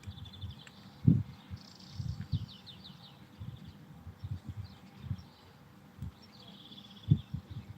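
Small birds chirping, with a few quick trills of repeated notes here and there. Irregular low thuds on the microphone are louder than the birds, most strongly about a second in and again near the end.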